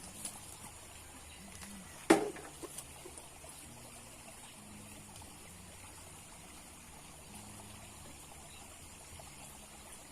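Water trickling steadily, with one sharp knock about two seconds in followed by a few faint clicks.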